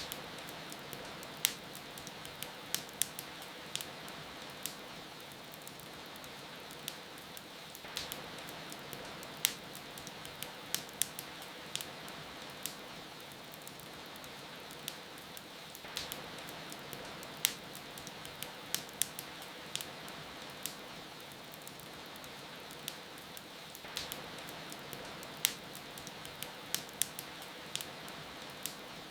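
Steady rain hiss with a wood fire crackling over it in sharp, irregular pops. The same stretch of pops repeats about every eight seconds, as in a looped ambience track.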